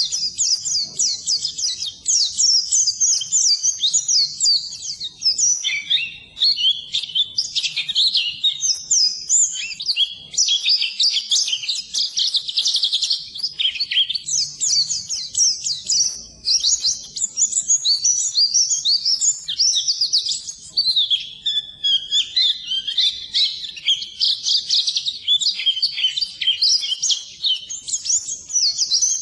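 White-eye (pleci) singing a long, fast, high-pitched twittering song with only brief breaks. This is the rapid chattering 'ngeriwik' song.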